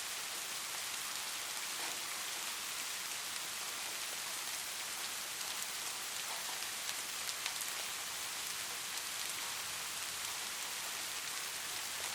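Light rain falling steadily: an even, soft hiss with scattered tiny drop ticks.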